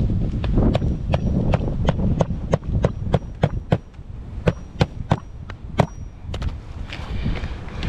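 Hammer striking a roofing nail into an asphalt shingle, a steady run of sharp blows about two to three a second, some with a faint high ring. The blows stop about six and a half seconds in. Wind rumbles on the microphone underneath.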